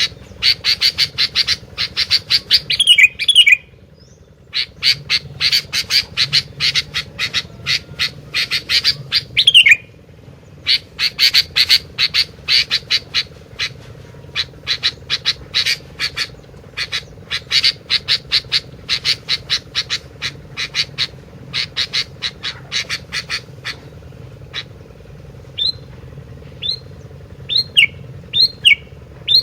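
A gentilang, a kutilang (sooty-headed bulbul) songbird, calling energetically in long runs of rapid, sharp chattering notes, several seconds at a time, some ending in a falling slur. Near the end the runs give way to single short downslurred whistles.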